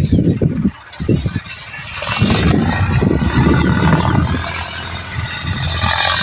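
Tractor engine running, getting much louder about two seconds in and staying loud and steady.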